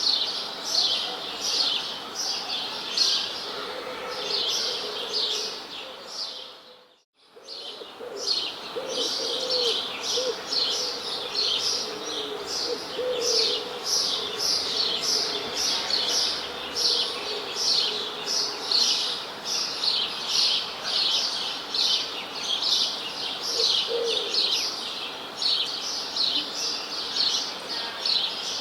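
Birds chirping: a dense run of short, high, downward-slurred chirps, several a second, with a lower call now and then. The chorus fades out about six seconds in and comes back a second later.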